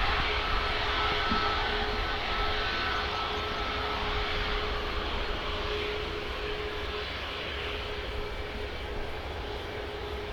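Airliner engines running, a steady rumble with a held whining tone, slowly fading.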